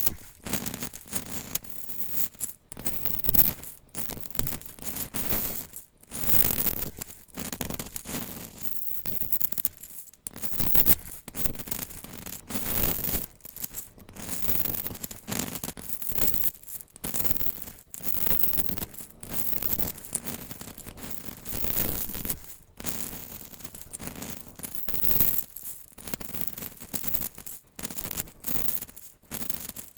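Dry, brittle bar soap being cut and crushed: a continuous run of crisp crunching and scraping strokes, irregular, about one or two a second.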